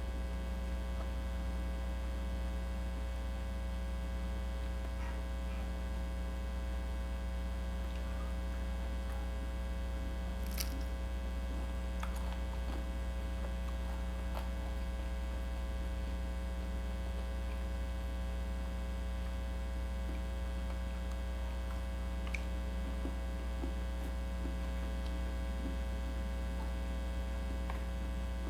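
Steady electrical mains hum, with a few faint short clicks scattered through it.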